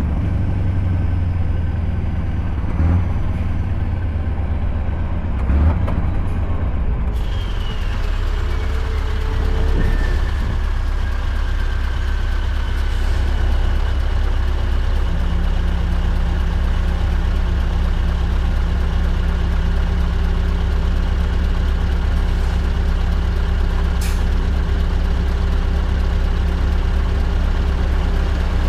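Scania truck's V8 diesel engine running steadily with a deep drone. Two short knocks come within the first six seconds, and a whine falls in pitch from about seven seconds in.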